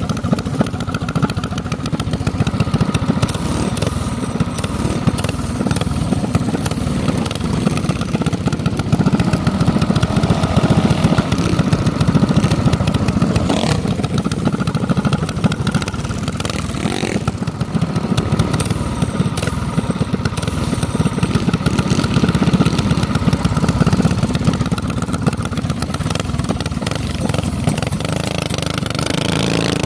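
Small minibike engine running steadily, with a couple of sharp clicks or knocks about halfway through.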